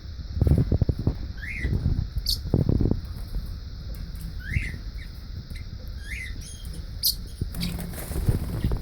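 Pet birds in a bird room giving a few short chirps that fall in pitch, with sharp high ticks, soft rustling and bumps, and a burst of flutter or rustle near the end.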